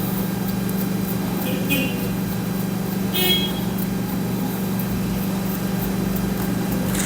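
Steady low hum in the workshop, with two light metallic clinks of a hand tool on engine bolts being tightened, about a second and a half in and again about three seconds in.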